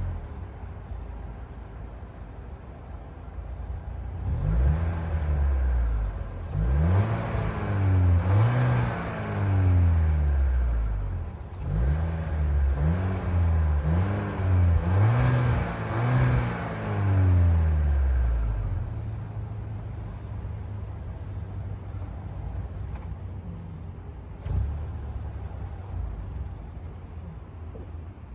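Seat Leon FR's 1.5 eTSI four-cylinder petrol engine being revved through the exhaust in a series of quick revs, each rising and falling in pitch. It then settles to a steady idle, with a single knock partway through the idle.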